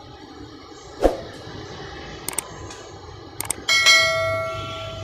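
A few light clicks, then a bell struck once about two-thirds of the way in, its bright ringing tone dying away slowly.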